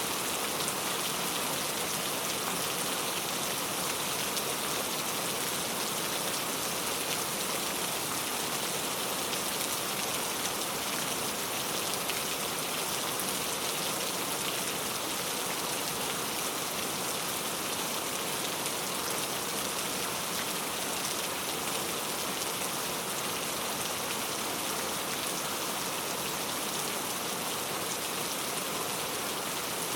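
Steady, even rainfall, a dense hiss of many drops striking a surface.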